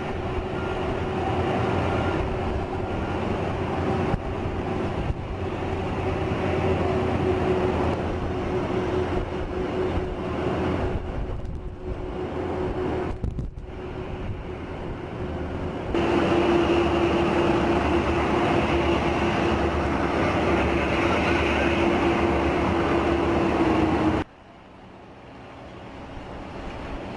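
Steady engine or machinery drone with a constant hum, stepping louder about two-thirds of the way in and then dropping abruptly near the end.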